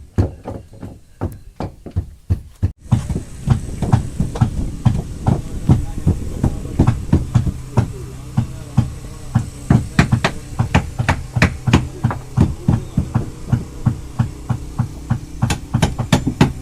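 Repeated hammer blows, several a second in an uneven rhythm, as of more than one hammer at work. After a sudden break about three seconds in, a steady low hum runs under the strikes.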